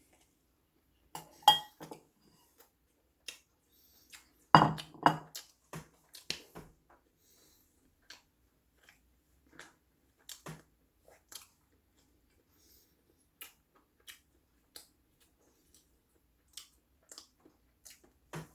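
Tableware clinking: cutlery tapping against dishes in scattered, irregular clicks, the loudest cluster about four to five seconds in, with some chewing between.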